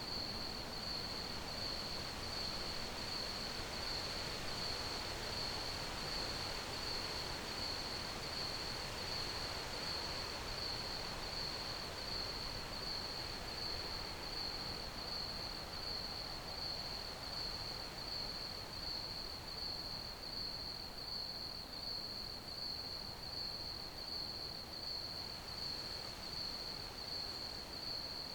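Crickets chirping in a steady, even pulse, high-pitched and unbroken, over a constant background hiss.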